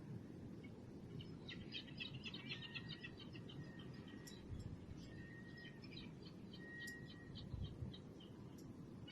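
Small songbirds chirping in quick runs of short high notes, with a few longer held whistles in between, over a low steady background rumble.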